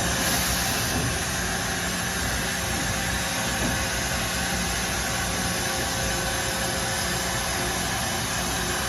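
Steady running hum and hiss of a CNC machine tool, even throughout, with a constant tone over the noise.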